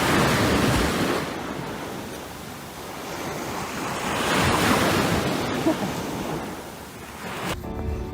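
A loud, steady rushing noise that swells at the start and again around the middle, then cuts off suddenly near the end.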